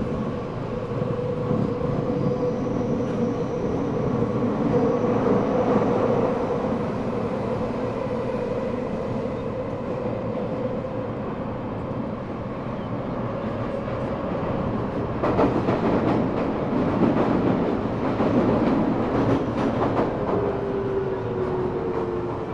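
Eidan 6000-series subway car running through a tunnel: wheel and tunnel rumble under a steady whine from its high-pitched Mitsubishi three-level VVVF inverter, which was carried over from a 7000-series car. The rumble grows louder for a few seconds after the midpoint. Near the end the whine falls in pitch as the train brakes for the next station.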